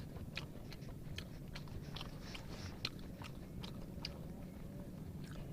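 Chewing food close to the microphone, with irregular small crunches, about three or four a second.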